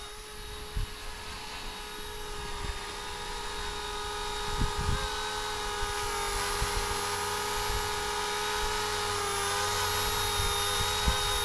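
Small RC Era Bell 206 scale RC helicopter in flight: its electric motor and rotors whine steadily in several held tones, growing gradually louder. A few brief low thumps of wind hit the microphone.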